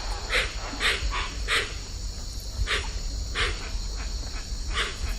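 An animal giving short, sharp calls, about eight at uneven spacing, over a steady high hiss.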